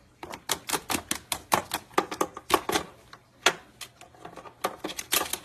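A pet bird's beak pecking and nibbling at a cord: a rapid, irregular run of sharp clicks, about four or five a second, with short breaks.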